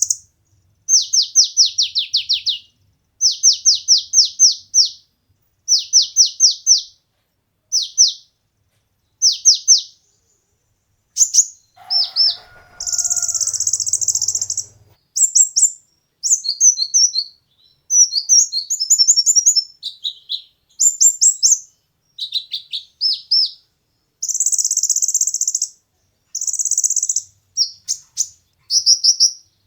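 Kolibri ninja sunbird singing: high-pitched bursts of rapid, downward-sweeping notes alternating with buzzy chattering rattles and quick twittering phrases.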